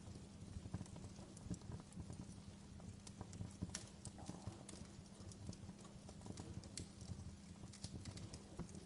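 Wood fire crackling in a fireplace: irregular small pops and snaps, several a second, over a steady low rumble.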